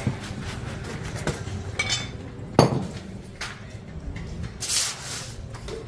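Scattered clinks and knocks of hard objects being handled, with one louder knock about two and a half seconds in and a short scraping hiss near the end.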